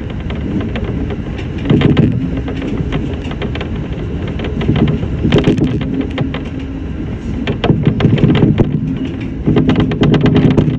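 Shinano Railway SR1-series electric train running on the line: a steady rumble of wheels on rail with bursts of clicking and clatter, growing louder several times.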